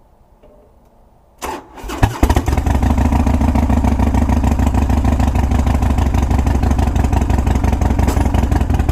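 Harley-Davidson Softail CVO Fat Boy's V-twin engine being started: the starter cranks briefly about a second and a half in, the engine catches at about two seconds and settles into a steady idle.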